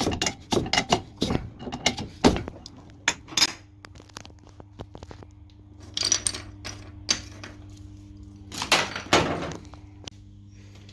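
Quick metal clinks and knocks of washing-machine parts and tools being handled during repair, then a steady low hum from about three and a half seconds in, with a couple of scraping sounds.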